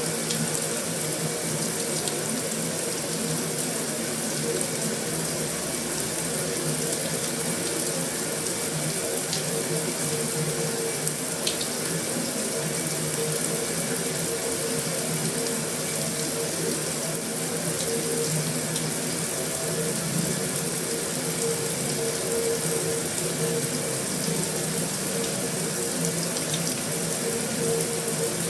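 Heavy rain falling steadily on a metal roof: an even, unbroken hiss with a few faint ticks of single drops.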